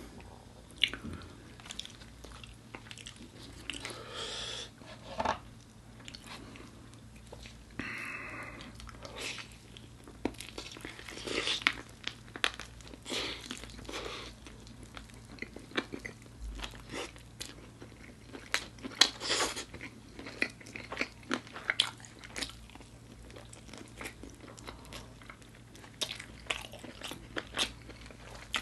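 Close-miked bites and chewing of crispy fried food, with many loud, irregular crunches throughout.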